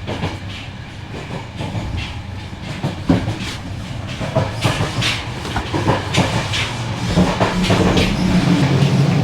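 Passenger train running along the track: a steady low rumble with irregular clicks and knocks from the wheels and carriage.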